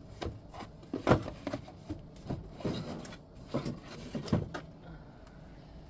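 Knocks and clunks of the stereo receiver's outer cover being handled and lifted off on the workbench, a handful of separate hits with the loudest about a second in.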